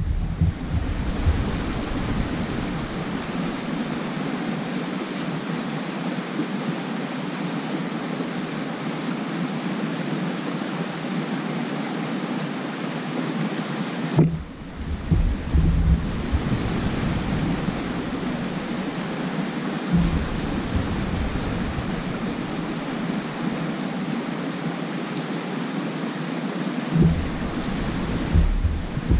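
Steady rush of wind and water on a lake, with gusts buffeting the microphone several times as low rumbles.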